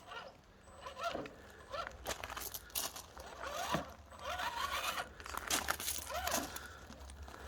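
RC rock crawler's 55-turn brushed motor and gears whining in short throttle blips that rise and fall in pitch, with the tyres scraping and crunching over rock.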